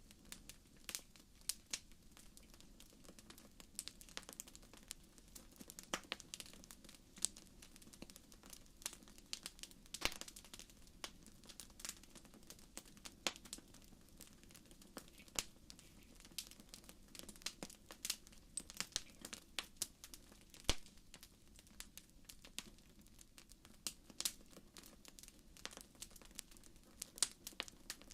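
Wood fire in a fireplace crackling, with irregular sharp pops and snaps several times a second over a soft steady low rumble of the burning.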